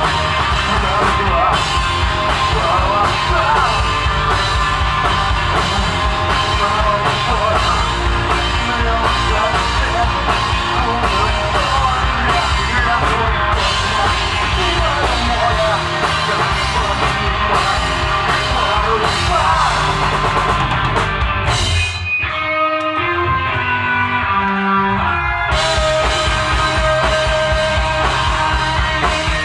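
Rock band playing live: drum kit, electric guitar and bass. About three-quarters of the way through, the drums and cymbals drop out for about three seconds, leaving single guitar notes, before the full band comes back in.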